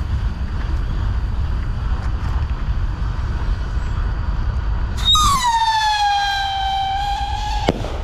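Winda Fireworks Howling Commandos rocket's howling whistle tail: a loud whistle starts about five seconds in, slides down in pitch and then holds steady for a couple of seconds, ended by one sharp bang near the end. A steady low rumble runs underneath.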